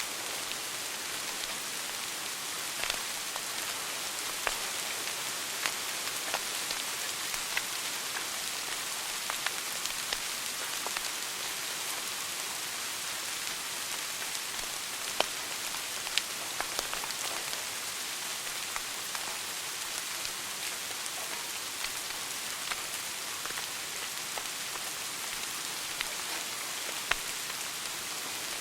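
Wood fire burning in a fireplace: a steady crackling hiss with scattered sharp pops, a few of them louder than the rest.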